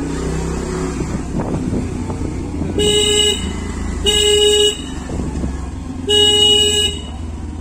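Three short honks of a vehicle horn, about a second apart, over the steady running of a motorcycle engine and road noise.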